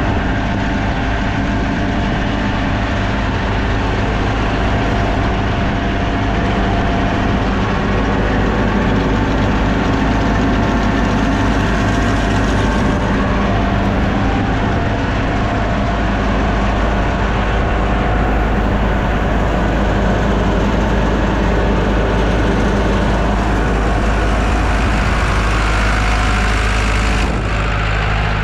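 Maize grain dryer running steadily, the machine hum of its drum rotating as it dries the grain.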